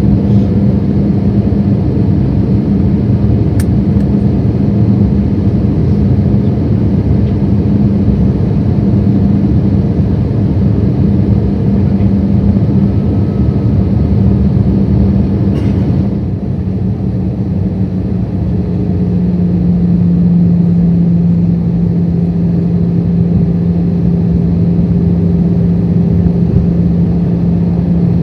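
Airbus A320 cabin on approach: a steady engine and airflow drone with a low hum. A sharp click about four seconds in comes as the landing gear is lowered. Another click around sixteen seconds is followed by a brief dip, after which the drone settles on a slightly lower note.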